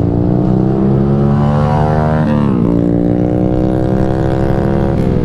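Yamaha R15 V3's single-cylinder engine through a Ronin Musashi aftermarket exhaust, pulling up through the gears under way: the pitch climbs, falls sharply with an upshift about two seconds in, climbs again, and falls with another shift near the end.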